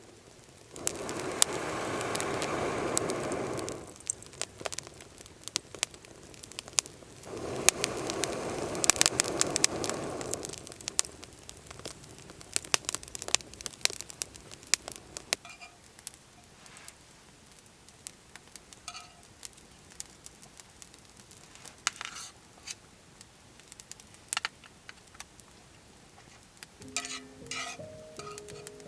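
Wood fire crackling and popping in sharp, irregular clicks, with two spells of hissing noise about three seconds long each, one starting about a second in and one about seven seconds in.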